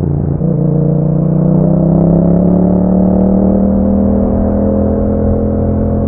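Yamaha MT-07's 689 cc parallel-twin engine running through an aftermarket Akrapovic exhaust under way. The engine note dips briefly about half a second in, then climbs steadily over the next two seconds as the bike pulls, and levels off.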